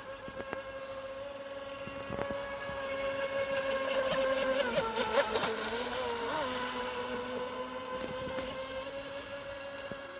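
Model motor yacht's motor running with a steady high whine; it grows louder about halfway through, its pitch wavering briefly, then settles again and eases off toward the end.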